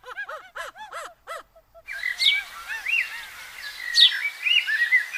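A quick run of arched chirping bird notes, then from about two seconds in a rainforest-style ambience: a steady hiss with repeated bird calls, sharp falling notes and looping chirps.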